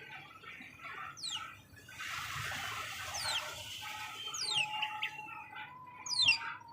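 Birds calling: quick high chirps that sweep sharply down in pitch come in about four bursts over a continuous chatter of lower calls. A steady whistled note is held from about four seconds in.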